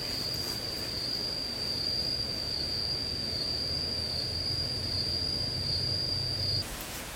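An insect's steady, high-pitched trilling drone over a low hum, cutting off suddenly near the end.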